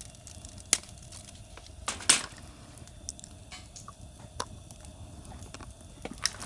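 Campfire wood crackling with scattered sharp pops; the loudest come about one and two seconds in.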